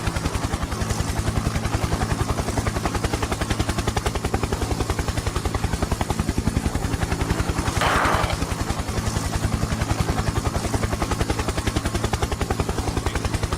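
Helicopter in flight: the rotor blades thump fast and evenly over a steady engine drone. A brief burst of hiss comes about eight seconds in.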